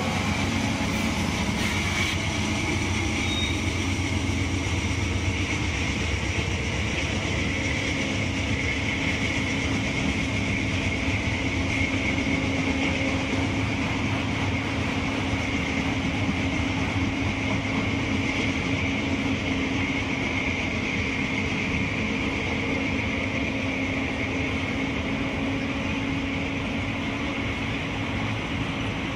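Freight train cars, mostly autoracks, rolling past steadily: a continuous noise of steel wheels on the rails with a steady high-pitched ring over it.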